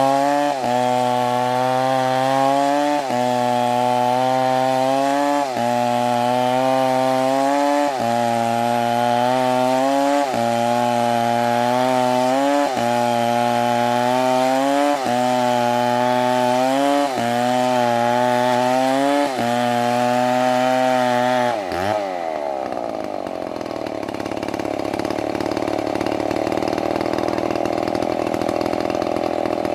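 Chainsaw engine running at high throttle, likely cutting wood, its steady note dipping briefly and picking back up about every two seconds. About 22 seconds in the note drops away and a lower, rougher running sound takes over.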